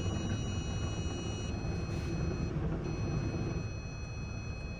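Steady low rumble inside a car going through a car wash, with several thin, high-pitched steady tones that cut out for a moment about two and a half seconds in.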